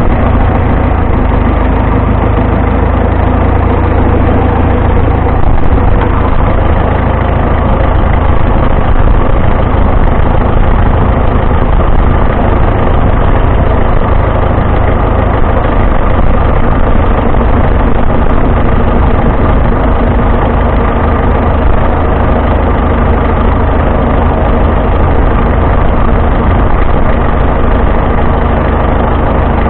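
Vintage farm tractor engine running steadily at a low, even speed, heavy in the low end.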